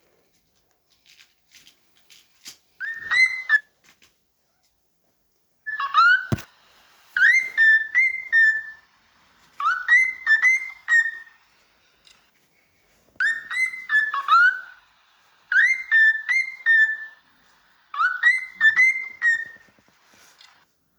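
Cockatiel calling in about seven short bursts of rising, whistled chirps, each burst a quick run of two to four notes; these are the calls heard from a cockatiel pair while mating. Faint clicks come before the calls, and a single sharp knock comes about six seconds in.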